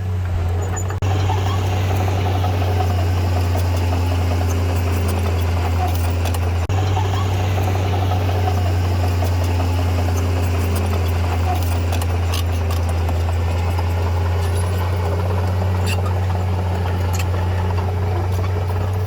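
Heavy earthmoving machine's diesel engine running steadily with a low drone, broken by two short dips about a second in and near seven seconds.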